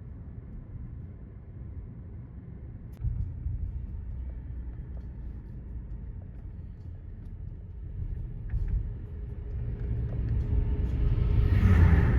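A moving car: steady low rumble of engine and road noise that gets louder about three seconds in and swells to its loudest near the end.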